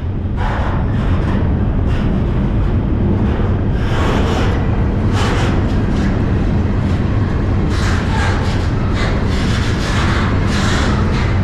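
Freight train rolling along the rails, heard from on board: a loud, steady deep rumble with a low hum, and irregular surges of hiss and rattle every second or so.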